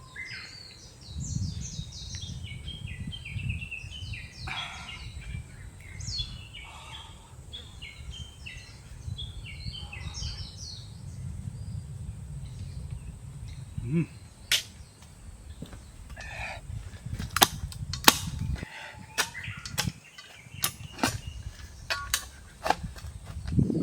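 A bird singing in quick runs of stepped, falling notes, then, from about halfway on, a series of sharp, separate cracks and snaps, about a dozen, irregularly spaced.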